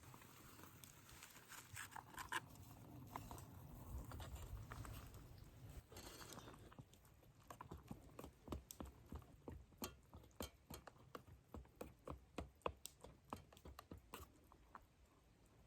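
Faint crackling of a small wood campfire: scattered sharp pops and clicks at an irregular pace, thickest in the second half.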